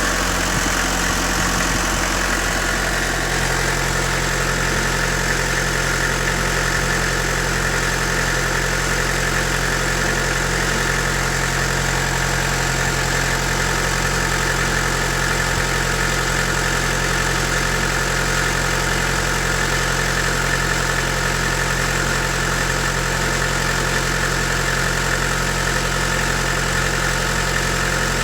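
Toyota 2.8-litre 3L four-cylinder diesel idling steadily and smoothly, its note deepening slightly about three seconds in.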